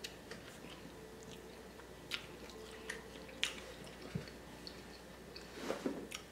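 Quiet chewing and mouth sounds of someone eating lobster, with a few short, soft clicks and smacks over a faint steady hum.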